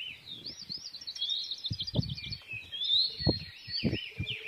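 Birds chirping, a fast string of repeated high, arched notes, over irregular low thuds.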